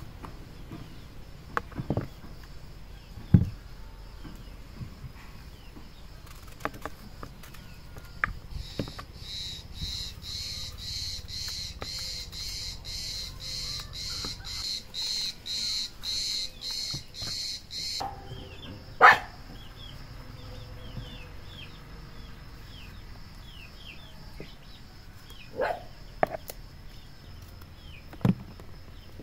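Outdoor ambience with small birds giving short, quick chirps. In the middle, a high buzzing pulse repeats about twice a second for some nine seconds, and a few sharp clicks or knocks stand out, the loudest near the start and in the middle.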